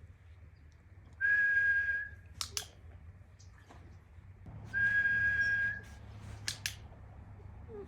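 Dog-training whistle blown twice as a long, steady tone, each blast about a second long: the long-tone whistle cue for the dog to lie down. A few sharp clicks follow each blast.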